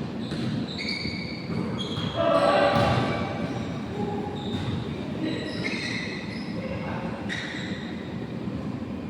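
Indoor basketball play: the ball bouncing on the court and sneakers squeaking in short high chirps, with players' voices and shouts mixed in, loudest a little past two seconds in.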